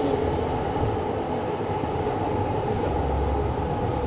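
Electric train running along the tracks, a steady rumble with no clicks or horn.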